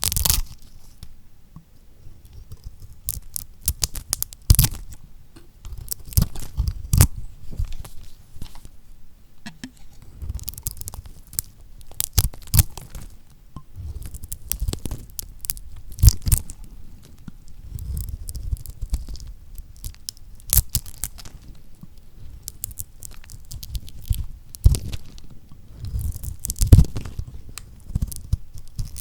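A knife cutting through lacquered bar soap: crisp crunching and crackling as the hard coated surface breaks, in short runs that recur every second or two, some with a dull thud underneath.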